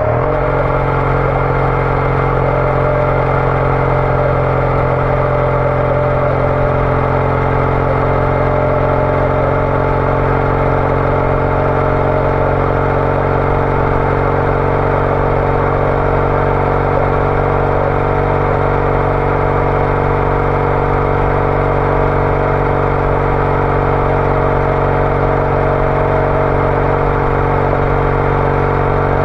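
Triumph Bonneville T214's parallel-twin engine through a TOGA exhaust, holding a steady engine speed while the bike cruises, with a constant, even pitch.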